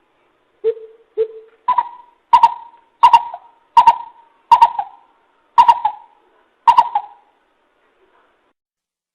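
Coucal calling: a series of nine deep hooting notes. The first couple are lower, and the rest are higher, coming about once every 0.7 to 1 s. Each note trails off briefly, and the series stops about seven seconds in.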